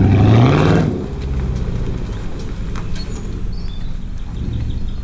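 Small pit bike engine revving up in the first second, then running on steadily at a low drone.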